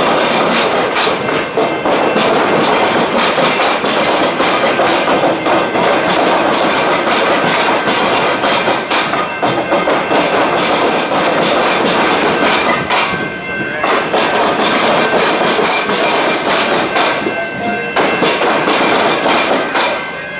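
Electric rail vehicle running on the tracks, with a steady noise of wheels on rail, thin whining tones and repeated clicks and knocks. It eases briefly twice in the second half.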